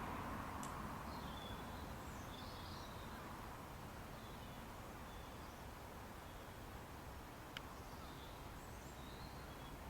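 Faint bird chirps and twitters scattered through, over a low steady background noise, with two sharp clicks, one just under a second in and one about three-quarters of the way through.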